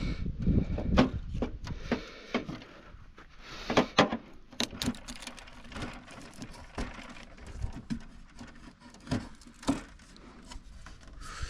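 Irregular clicks, knocks and scraping as a flathead screwdriver pries at a snowmobile's rear bumper, which is still held by partly drilled-out rivets.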